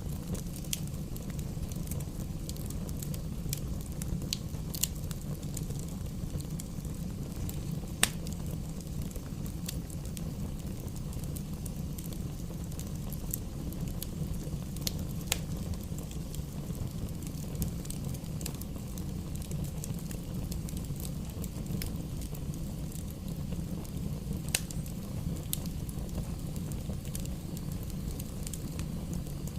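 Wood fire burning in a fireplace: a steady low rumble with sharp crackles and pops of the burning firewood scattered irregularly through, a few of them louder.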